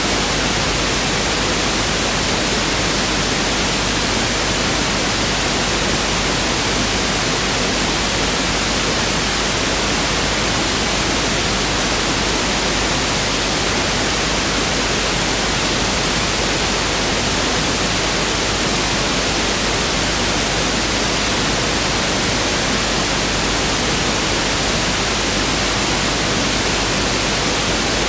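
Pink noise test signal (1/f noise): a steady, even hiss spread across the whole audible range, unchanging.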